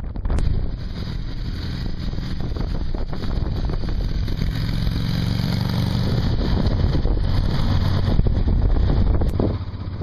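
Motorcycle engine running while riding, buried in heavy wind noise on the microphone; the sound drops off a little just before the end.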